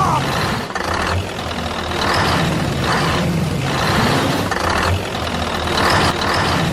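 Truck engine sound, running steadily with a noisy swell that rises and eases about once a second over a low rumble.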